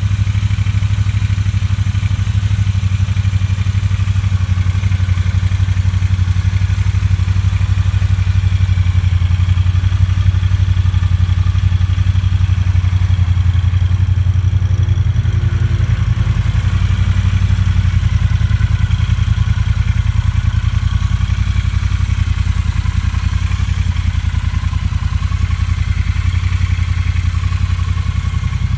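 Triumph Bonneville T120's 1200cc parallel-twin engine idling steadily, a low, even pulse that holds unchanged throughout.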